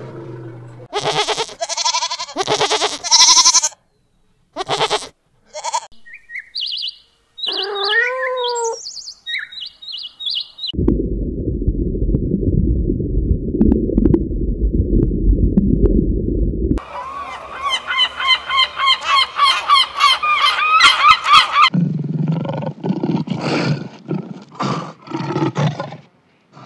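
A series of different animal calls, each cut off abruptly and followed by the next. It opens with squawking bird-like calls, has a stretch of low, steady noise in the middle, and ends with fast, repeated honking calls and then slower pulsed calls.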